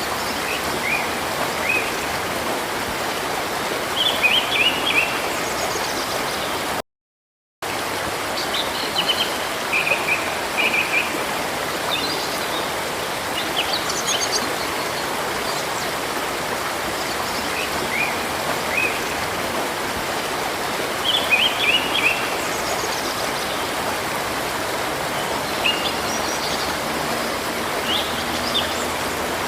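A river's steady rushing flow with small birds chirping in short bursts of high notes every few seconds. The sound cuts out completely for under a second about seven seconds in, then resumes.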